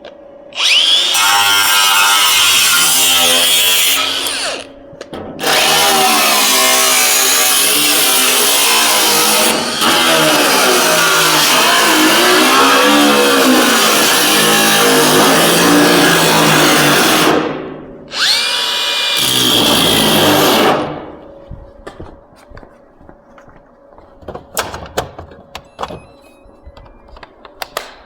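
Power cutting tool cutting into the sheet-steel fender to relieve the patch fit. It runs in three spells: a short one, a long one of about twelve seconds, and a brief one. Its whine dips and rises as it loads in the metal and falls away as it spins down each time. Light clicks and taps follow near the end.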